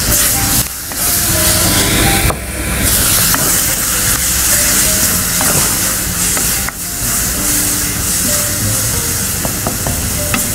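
Ripe mango pulp and onions sizzling in hot oil in a clay pot, stirred steadily with a wooden spoon that scrapes the pot's sides; the pulp has just gone into the hot tempering.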